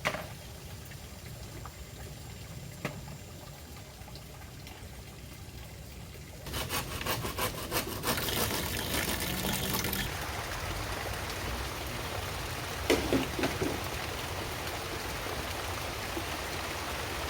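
Heavy tropical rain: a light steady hiss, then about six seconds in a downpour sets in suddenly and carries on as a loud, steady rush, with a few knocks about two-thirds of the way through.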